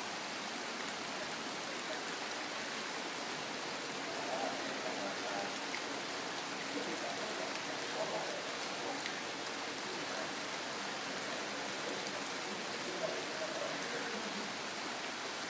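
Heavy rain falling steadily, an even hiss of drops on wet leaves and stone.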